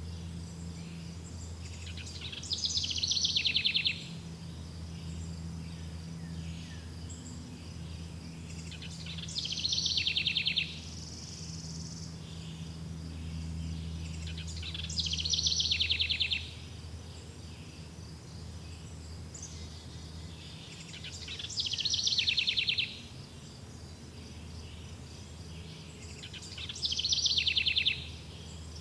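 A songbird repeating a fast, falling trill five times, about one phrase every six seconds. Under it runs a steady high insect drone and a low background hum.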